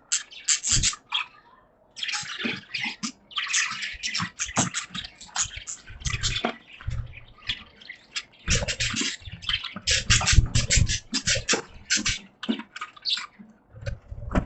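Budgies chattering in a fast, scratchy run of short chirps and clicks, broken by a brief pause and a few low bumps.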